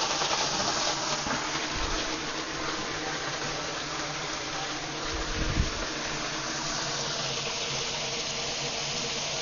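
Steady hissing gush of water, a pressurised stream shooting out of a tank's drain. A brief low thump about five and a half seconds in.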